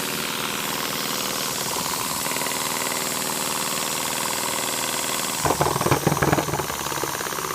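Anton Bohaboy twin-cylinder model marine steam engine running fast and steady on 40 psi, with a continuous hiss. About five and a half seconds in, a louder patch of irregular knocking lasts for roughly a second and a half.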